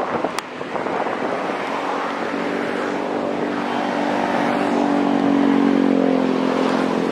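Wind and road noise while riding along a road, with a steady engine hum from motor traffic coming in about two seconds in, strongest near the middle and easing near the end.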